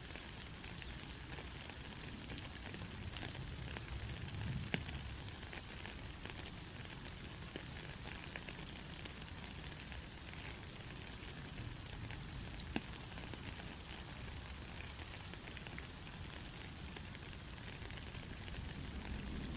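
Steady white noise for lulling a baby to sleep: an even hiss with scattered faint crackling ticks, close to the sound of light rain or sizzling.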